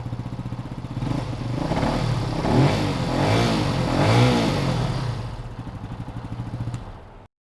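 Benelli TNT 135 mini bike's single-cylinder engine on its stock exhaust, idling and then revved several times, each rev rising and falling back, before the sound cuts off suddenly near the end.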